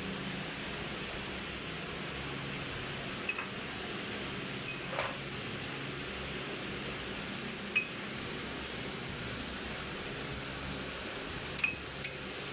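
A few light metallic clinks of tools or engine parts being handled, spaced several seconds apart over a steady background hiss; the loudest clink comes near the end.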